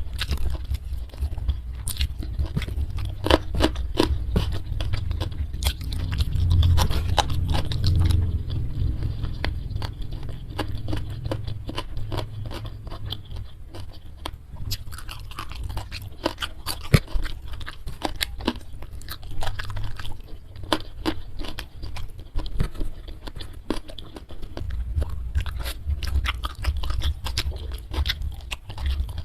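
Close-miked eating: chewing and crunching of food, with many sharp clicks and crackles over a heavy low rumble.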